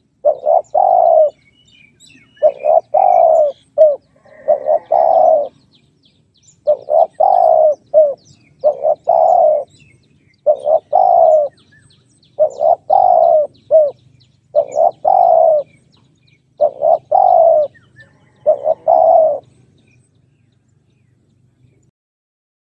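Spotted dove cooing: about ten short phrases of two or three low coos each, repeating roughly every two seconds, stopping a few seconds before the end.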